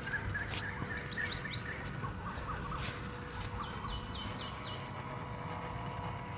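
Birds calling in short repeated chirps, with two quick runs of falling high notes, over a steady low rumble.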